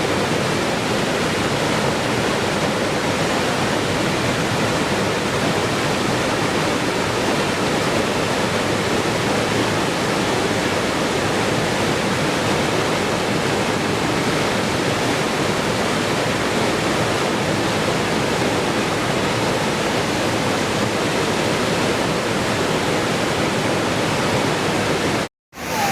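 Rushing water, a waterfall-like steady hiss spread evenly from low to high pitches. It drops out to silence for a fraction of a second near the end.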